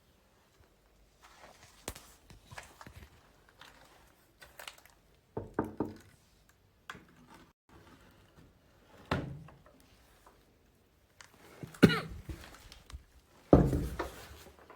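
Scattered knocks and thuds with rustling, as of objects and doors being moved and handled in a small room. The two loudest are near the end: a sharp knock, then a heavy thud.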